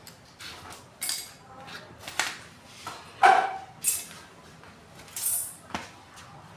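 Irregular clinks and knocks of hard objects being handled and set down on a work surface, about six in all, the loudest a clatter about three seconds in.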